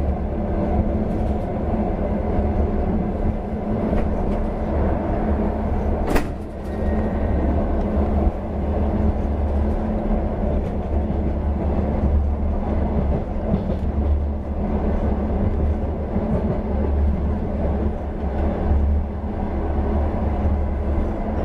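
Long-distance passenger train carriage running at speed, heard from inside the coach: a steady deep rumble of wheels on the rails. A single sharp click comes about six seconds in.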